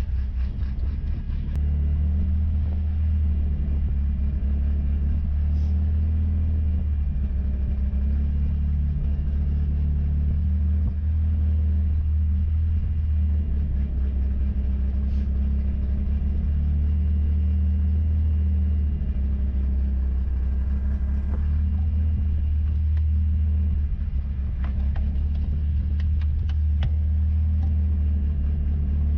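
Steady low rumble of the 1963 Volvo's swapped-in Ford 2.3 L turbo four-cylinder engine running without revving. A few light clicks sound near the end.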